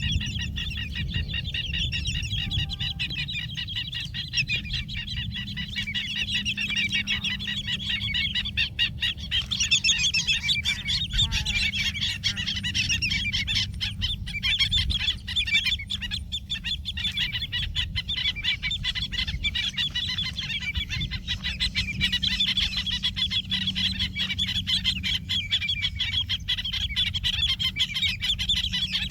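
A flock of wading birds squawking constantly, a dense unbroken chorus of short harsh calls, with a steady low rumble underneath.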